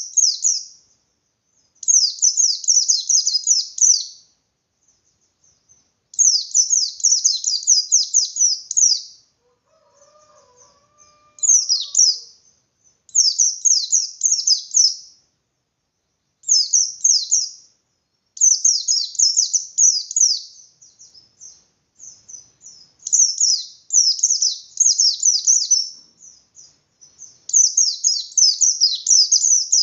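Pleci bustomi, a white-eye variety, singing its fast, high, chattering 'ngalas' song in repeated phrases of one to three seconds with short pauses between. This is the full, open-beaked song that keepers play to provoke other white-eyes into answering.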